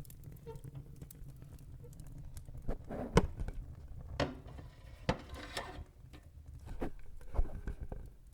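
Wood fire in a fireplace crackling: a steady low rumble of the flames under scattered sharp pops of burning wood, the loudest about three seconds in and again near the end, with a brief hiss a little after five seconds.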